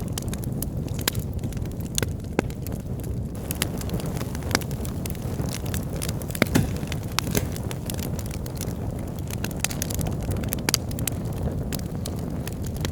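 Wood fire in a fireplace: a steady low roar of burning logs with frequent irregular crackles and pops, one louder pop about six and a half seconds in.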